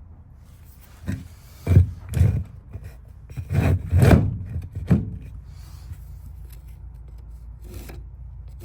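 Lumber being handled: wood rubbing and knocking against wood, about six times between one and five seconds in, over a faint steady low hum.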